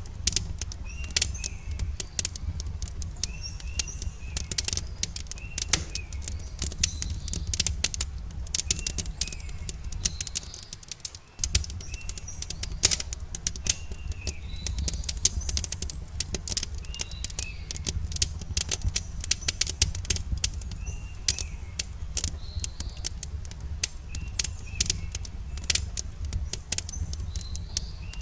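Wood campfire crackling, with frequent irregular sharp pops and snaps over a steady low rumble that drops out briefly about eleven seconds in. Small birds chirp repeatedly, in short calls.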